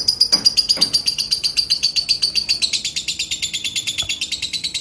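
Female lovebird singing a long, unbroken run of rapid high chattering notes, about ten a second, its pitch sliding slowly lower with a slight step down a little past halfway. This is the non-stop 'konslet' chatter that Indonesian bird-song keepers prize in female lovebirds.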